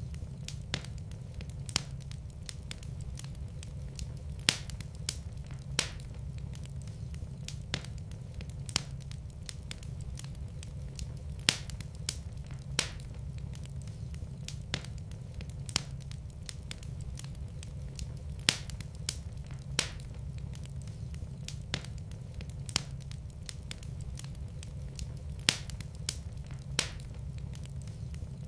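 Wood fire crackling in a fireplace: irregular sharp pops and snaps, a few every second and some much louder than the rest, over a steady low rumble of the burning fire.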